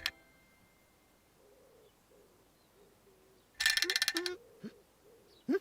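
Cartoon sound effects over a quiet background: faint wavering calls, then a short, loud burst of rapid rattling jingle just past halfway, and two quick rising whoops near the end.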